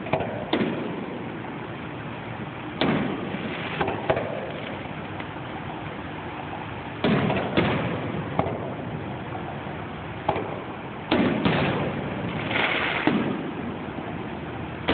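Aerial firework shells bursting in a series of booms, about a dozen at uneven intervals, some in quick pairs, each trailing off in a rumbling echo.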